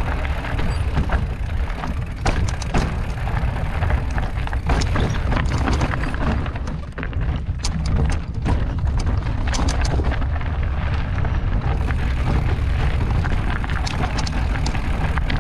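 Mountain bike riding over a rocky trail: wind buffeting the microphone as a steady low rumble, with scattered clicks and knocks from the bike rattling over rocks.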